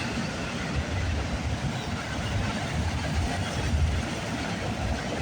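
A train passing on the line: a steady rolling rumble of wheels on rail with a rushing noise over it.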